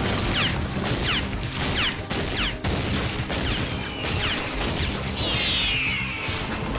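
Cartoon action soundtrack: dramatic music under crashing impacts, with a run of short, high falling swoops and a denser cluster of falling tones about five seconds in.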